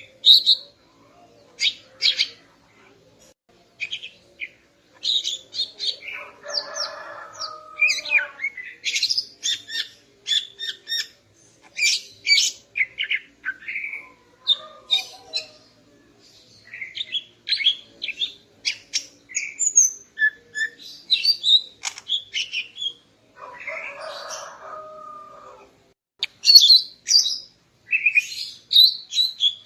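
Female greater green leafbird (cucak ijo) calling in a busy string of short, sharp chirps and whistles. Twice, about a quarter of the way in and again about three-quarters through, a lower, harsher buzzing phrase comes in.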